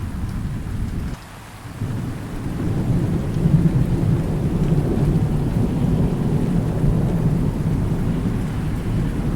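Thunderstorm: rain falling steadily under rolling thunder. The rumble dips briefly about a second in, then a long, low peal of thunder builds and rolls on through the rest.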